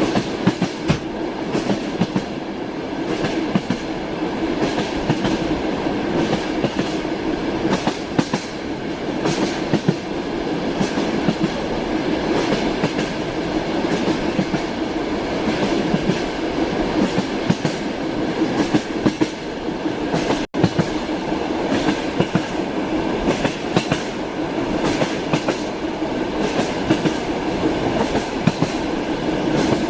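Moving railway carriage: steady rumble with the clickety-clack of wheels striking rail joints, the knocks coming irregularly throughout. The sound drops out for an instant about two-thirds of the way through.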